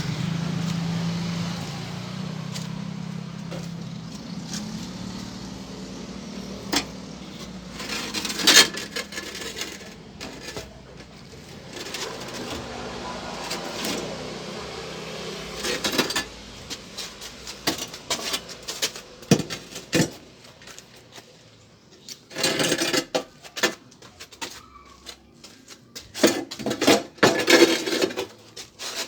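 Scattered clicks, knocks and clattering, like parts and tools being handled. A low hum fades away in the first few seconds, and the clattering comes thick near the end.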